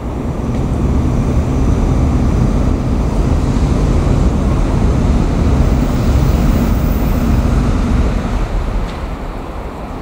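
Shinano Railway 115-series two-car electric train running past with a loud, steady rumble that builds in the first second and eases off about eight and a half seconds in.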